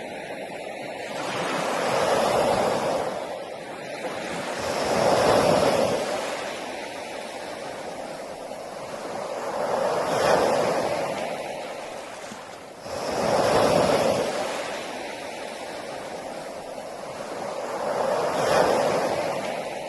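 Sea waves washing onto a beach: five surges of surf in about twenty seconds, each building up and ebbing away, one arriving with a sudden crash about two-thirds of the way in.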